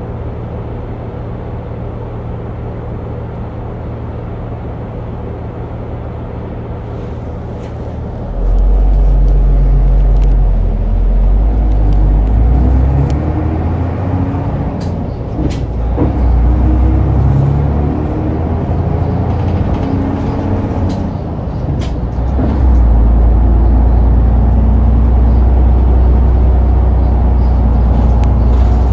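Route bus engine idling steadily, then pulling away about eight seconds in and accelerating, its pitch rising and falling through the gears, with a few clicks along the way.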